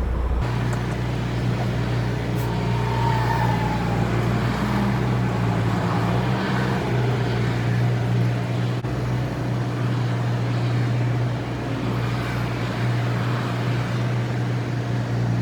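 Tractor-trailer diesel engine running with a steady low hum while the truck reverses slowly.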